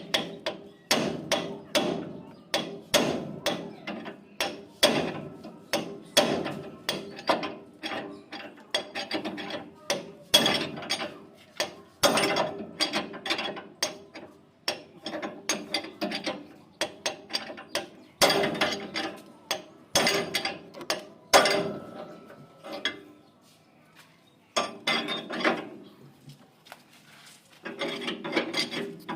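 Hand tools working on the combine harvester's metal parts: repeated sharp metallic clicks and knocks, a few a second, each with a brief ring, broken by a couple of short pauses near the end.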